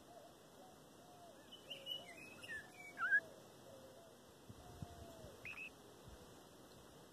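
A songbird's short chirps and calls: a quick cluster of sliding notes from about one and a half to three seconds in, and one more down-slurred note near the end. A run of faint lower notes sounds under them during the first five seconds.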